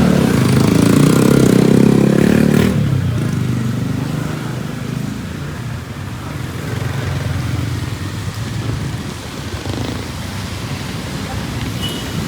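A motorcycle engine running close by, loudest for the first two to three seconds and then dropping away as it passes, over steady street traffic noise.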